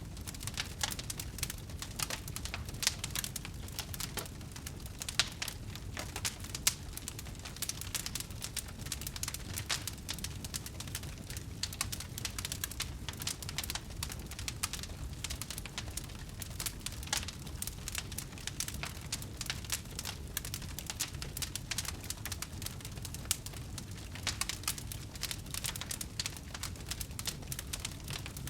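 Wood fire burning with dense, irregular crackling and occasional louder pops over a low rumble of the flames.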